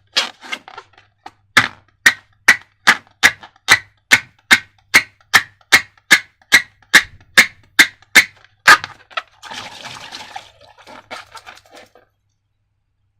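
A steady run of sharp clicks, about two and a half a second, stopping about nine seconds in, followed by a brief soft hiss.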